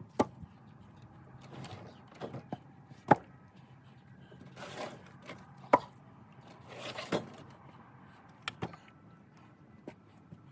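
Pieces of firewood being handled and dropped onto a pile: irregular hard wooden knocks, the loudest about three and six seconds in, with rustling and scraping of wood between them, over a faint low steady hum.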